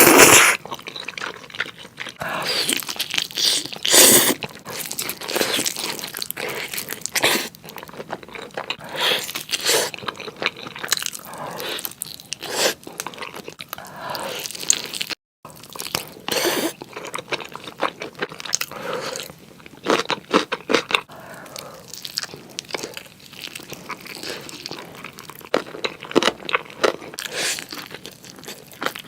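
Close-miked eating sounds: a series of crunchy bites and chewing with wet, sticky mouth noises, one of the loudest bites right at the start. A short break about halfway through, where one clip is cut to the next.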